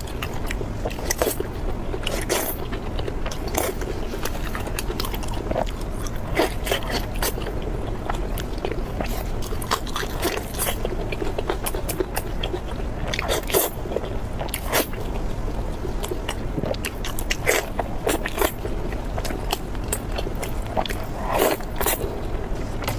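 Close-miked crunchy bites and chewing of crispy food, with sharp crunches every second or two over a steady low hum.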